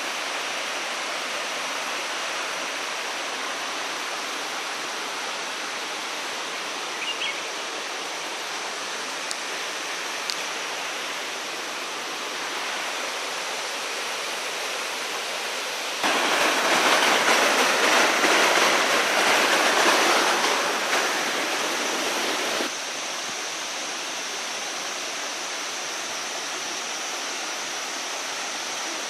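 Waterfall rushing: a steady roar of falling water. About halfway through it turns clearly louder for roughly six seconds, then drops back abruptly.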